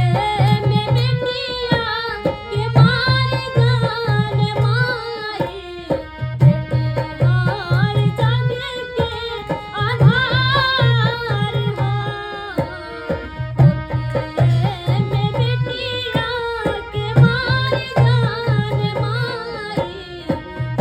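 A girl singing in a high voice, with sliding, ornamented turns in the melody, over accompaniment with a low drum pattern that comes back in short groups every few seconds.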